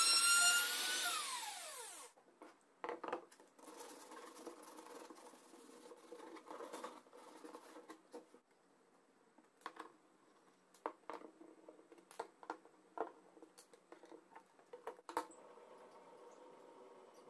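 Electric power tool motor whining at full speed, then switched off and spinning down, its pitch falling away within about two seconds. Scattered light clicks and knocks of workshop handling follow.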